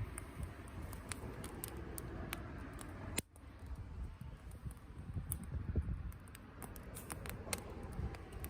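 Wood campfire crackling, with irregular sharp pops over a low rumble; the sound drops out for a moment about three seconds in.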